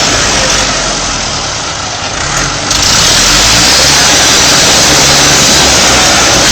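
Tractor engine running loud and steady under load, with a rough, noisy sound; it grows louder a little under three seconds in.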